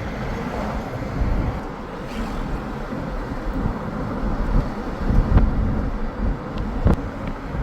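Steady low rumble and hiss, like a moving vehicle heard with wind on the microphone, with a couple of short knocks in the second half.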